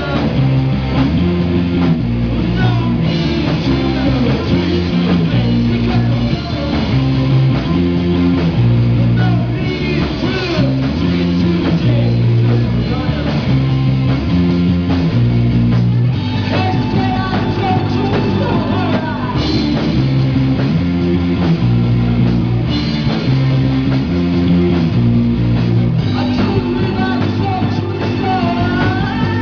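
Loud rock music: a band with electric guitar, bass and drum kit, and a singing voice over it, bass notes changing every second or two.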